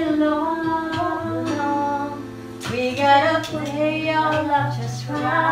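Women singing along to a karaoke backing track played through a TV.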